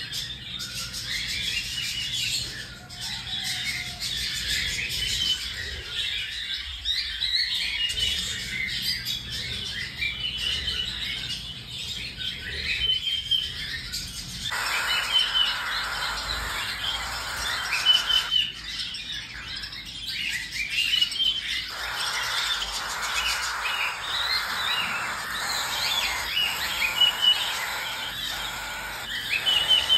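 Cockatiels chirping: many short, high chirps throughout, with longer stretches of a harsher, noisier chatter in the middle and latter part.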